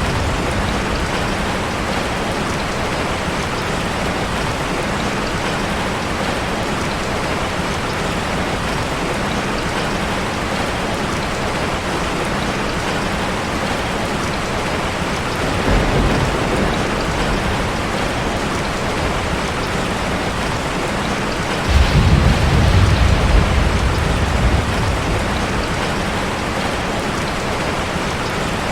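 Steady rush of a waterfall, a dense even hiss of falling water, with two deeper rumbles: a short one about halfway through and a louder one lasting a couple of seconds past the two-thirds mark.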